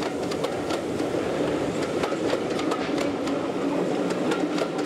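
A train of passenger coaches rolling past, its wheels clicking over the rail joints above a steady rumble.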